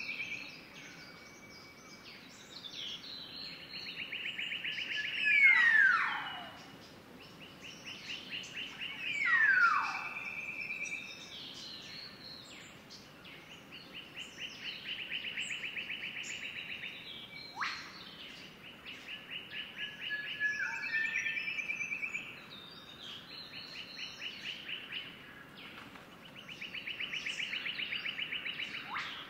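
Birds calling: repeated rapid trills on one steady high pitch, each lasting a couple of seconds, mixed with short chirps, and two loud downward-sweeping calls about five and nine seconds in.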